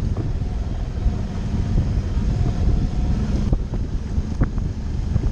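Suzuki V-Strom motorcycle running along a dirt trail, a steady low engine rumble mixed with wind buffeting on the microphone, with a few short ticks.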